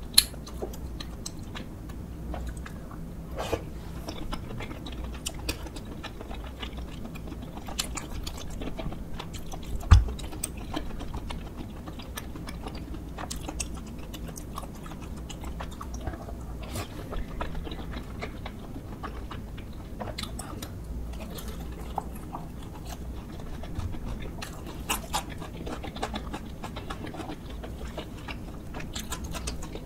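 Close-miked chewing and biting of spicy tteokbokki with fish cake, with small mouth clicks throughout. A single dull thump comes about ten seconds in.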